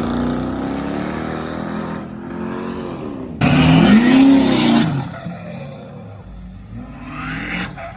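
Car engines accelerating and revving in a few short cut-together clips. A louder rev rises and falls in pitch just after three seconds, then the engine noise drops back.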